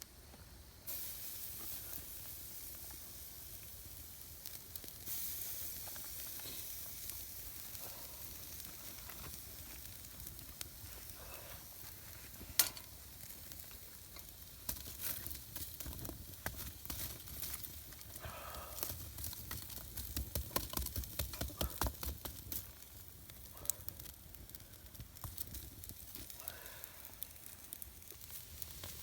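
Meat sizzling as it grills over a campfire. The hiss starts suddenly about a second in and carries many small crackles and pops, with one sharp pop about halfway through.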